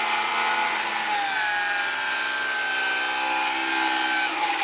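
Cordless power saw running and cutting into wood, on a battery that is nearly flat after a night in deep cold.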